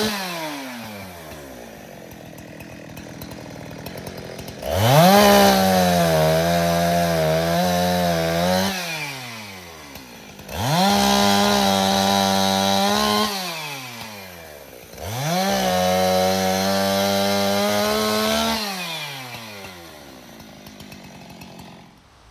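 Two-stroke chainsaw cutting brush: three bursts of full throttle, each held for a few seconds with the pitch sagging and wavering under load, then dropping back to idle. The saw is winding down near the end.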